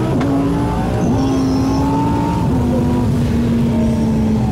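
1,200-horsepower Audi R8 engine under a hard full-throttle pull, heard inside the cabin. Its note dips twice in the first second as it shifts up, then holds near steady and eases down slightly.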